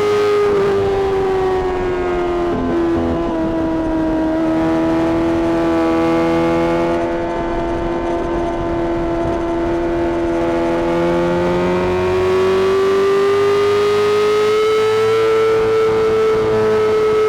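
Honda CBR600RR's inline-four engine, through a Mivv exhaust, running at high revs under way. Its high-pitched note sags over the first few seconds, holds, then climbs back up past the middle and holds near the end.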